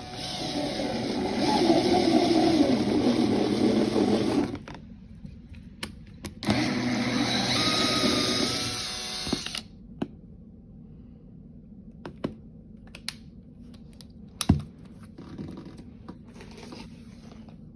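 An electric power drill runs in two stretches, one of about four and a half seconds and one of about three seconds, with a steady motor whine in the second. Scattered sharp clicks and taps follow.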